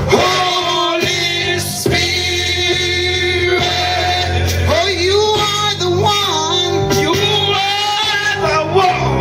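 Live church worship music: a singer's voice over a band with a steady bass.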